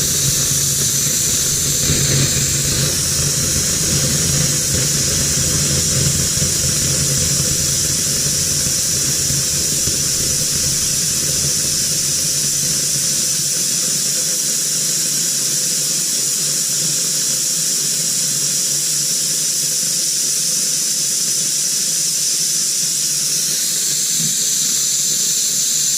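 Kitchen sink tap left open, with water and air rushing through it in a steady loud hiss: the plumbing lines being purged while the water heater refills. A low rumble under the hiss drops away about halfway through.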